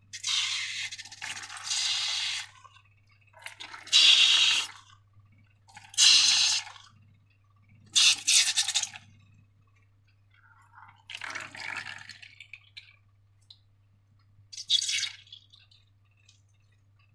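Slime squelching wetly in a series of short bursts, about seven, each lasting a second or so with pauses between.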